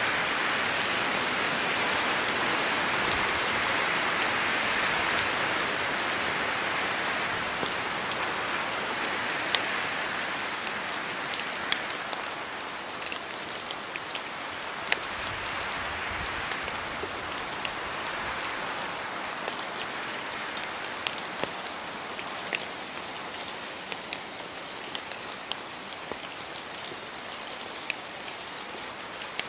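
Steady rain falling on a house yard, an even hiss with many sharp drop ticks on hard surfaces, easing slightly over the span.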